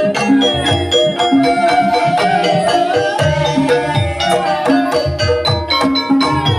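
Live Banyumas ebeg gamelan music: a hand drum and struck metal keys playing a busy, steady rhythm, with a wavering melodic line held above them.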